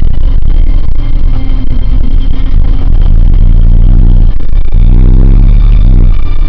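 A 1998 Nissan Eagle pickup driving, its engine running with a heavy low rumble; a little past halfway the engine note rises and then falls again.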